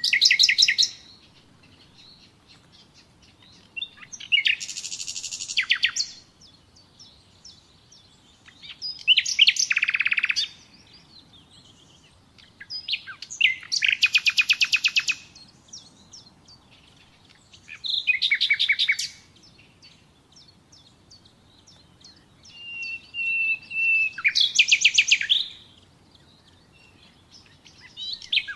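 Common nightingale singing short phrases of rapid repeated notes and trills, one about every four or five seconds with quiet gaps between. About three-quarters of the way through, a held whistle leads into a fast trill.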